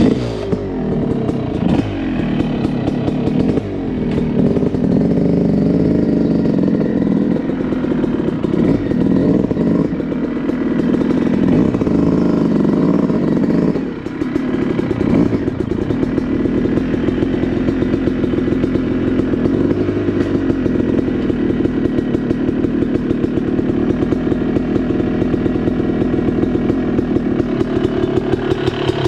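Yamaha YZ250 two-stroke dirt bike engine running under way, the revs rising and falling for the first half, dropping sharply about halfway through, then holding steadier.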